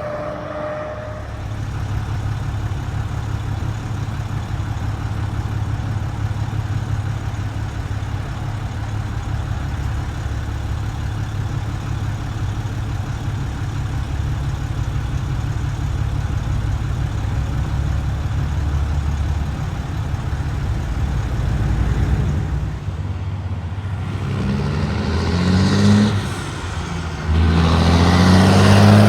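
Road traffic with heavy trucks: diesel engines running steadily with a low hum, then a truck's engine rising in pitch as it accelerates past near the end. A horn tone trails off in the first second.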